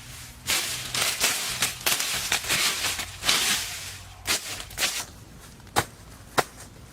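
Work with a hand tool: rough scraping noise for the first few seconds, then separate sharp strikes at uneven intervals, about four of them in the second half.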